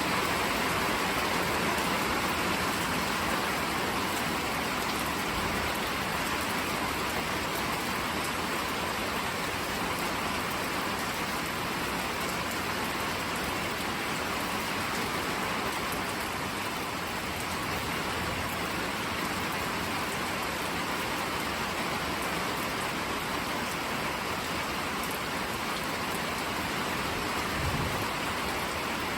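Steady rain falling and spattering on surfaces, an even hiss with no letup, and a brief low thump near the end.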